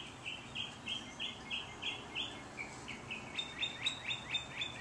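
A songbird singing a long series of short, quickly repeated falling notes, about three or four a second, with a higher-pitched run of notes starting about two-thirds of the way in.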